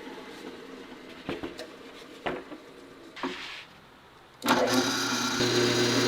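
A few light knocks over a low hum, then an electric power tool switches on about three-quarters of the way in and runs steadily and loudly.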